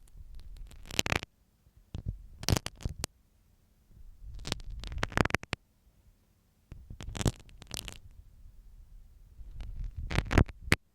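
Ear-cleaning ASMR sound of a dressmaker's pin scratching and scraping right against the microphone, in five short strokes of about a second each with brief pauses between. The contact with the microphone adds a low rumble to each stroke.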